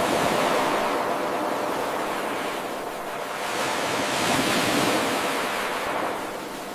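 Ocean waves washing on a shore: a surge of surf that eases off about halfway through, builds again and fades near the end.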